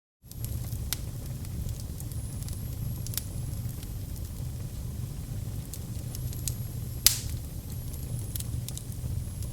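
Wood fire burning in a fireplace: steady low rumble of the flames with scattered crackles and one loud pop about seven seconds in. A faint high whistle comes and goes, and the sound cuts in just after the start.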